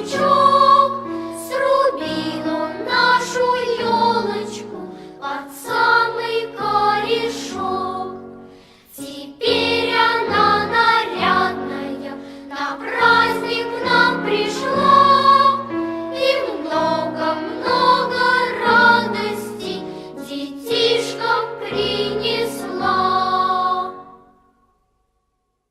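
Choir singing a children's New Year song with instrumental backing, with a short break about eight seconds in; the music ends about twenty-four seconds in.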